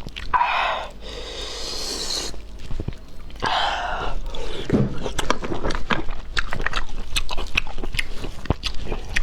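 Close-up eating sounds: a person chewing and biting food with wet, smacking clicks, broken by two longer airy, hissing stretches in the first half.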